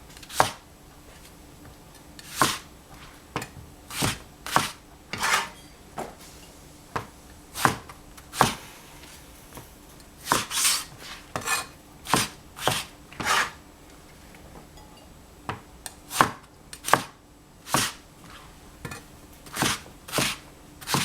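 Knife chopping food on a cutting board: sharp single strokes at an uneven pace, often one or two a second, with short pauses between runs.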